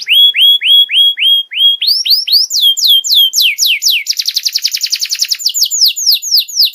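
Canary singing a masteran (training song for young canaries): a quick series of whistled notes that each slide downward, a fast rattling trill about four seconds in, then more downward-sliding notes.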